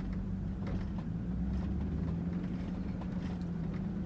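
A truck's engine running, heard from inside the cab as a steady low hum, with a few faint clicks.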